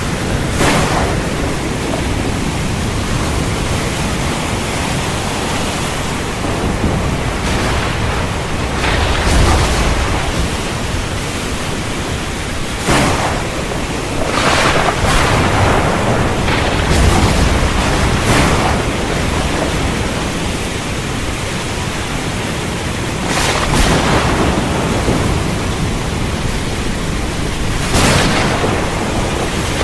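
Heavy rain falling steadily, with sharp thunder cracks every few seconds and low rumbles swelling under the rain.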